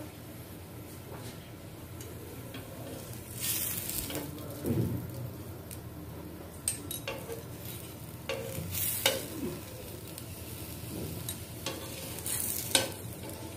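Oil sizzling under folded tacos shallow-frying on a non-stick tawa, with a flat spatula pressing and scraping against the pan in several short spells, the sharpest about nine seconds in and near the end. A steady low hum runs underneath.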